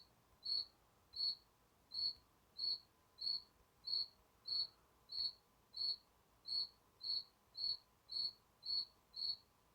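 A cricket chirping steadily, about one and a half short, high chirps a second, each at the same pitch.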